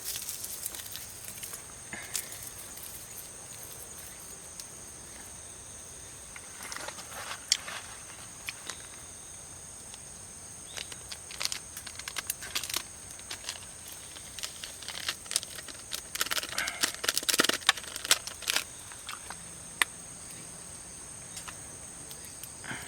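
Steady high-pitched drone of insects calling, with scattered clicks and rustles of things being handled, thickest in the second half.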